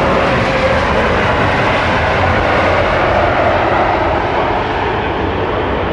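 Large jet airliner's engines, a loud steady rush of jet noise as the plane passes close to the runway edge.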